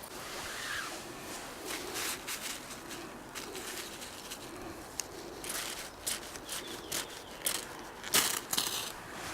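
Dry twigs crunching and snapping in an irregular run of crackles, with the loudest cluster of crunches about eight seconds in.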